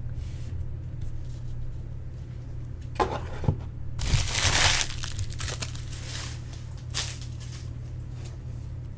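Crinkling and tearing of a trading-card pack wrapper as cards are handled. There is a short rustle about three seconds in, a longer, louder one a second later and a brief one near the end, over a steady low hum.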